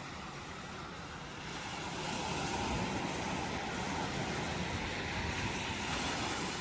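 Ocean surf: a wave builds about a second and a half in, rushes in steadily for several seconds, then starts to subside at the end.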